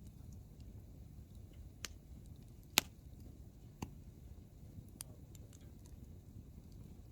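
Hardwood campfire crackling: split firewood popping in a few sharp snaps, the loudest a little under three seconds in, over a low, steady rumble.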